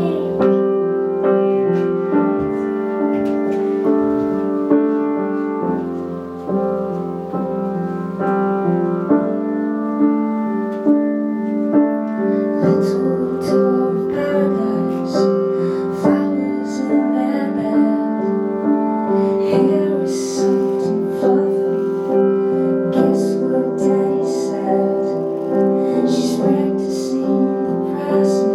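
Piano music: a keyboard playing a slow song with held chords under a melody.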